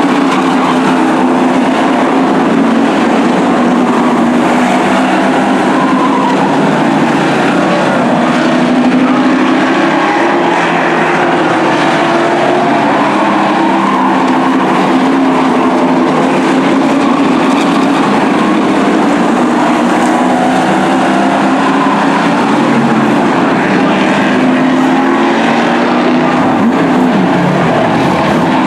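A pack of race trucks running laps on a short oval, several engines sounding together loudly and continuously, their pitches wavering up and down as they accelerate and lift through the turns.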